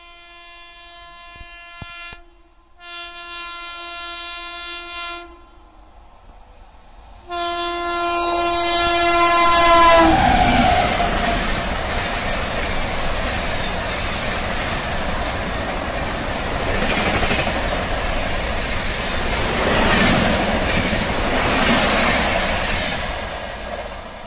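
WAP-7 electric locomotive's air horn sounding three times as the express approaches: the end of one blast, another, then a long one that falls in pitch as the locomotive passes. Then the coaches rush past with wheels clattering over the rail joints, fading near the end.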